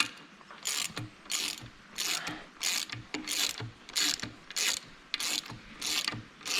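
Hand ratchet tightening a bolt, its pawl clicking in about ten regular back-and-forth strokes, roughly three every two seconds.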